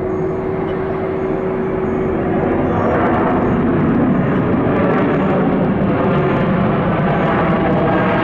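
Jet airliner engine noise: a steady rumble with a held whine that fades about three seconds in, after which the roar grows slightly louder and fuller.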